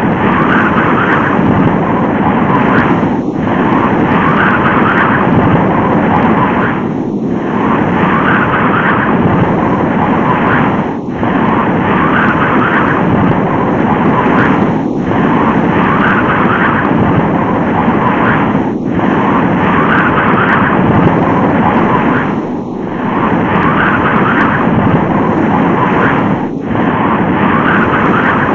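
Tornado wind sound effect: a loud, steady rush of noise, looped, with a brief dip about every four seconds.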